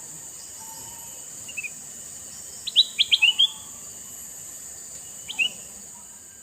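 Male kutilang mas bulbul calling: a faint short note, then a quick burst of sharp, loud chirps in the middle, and a short pair of chirps near the end, over a steady high hiss.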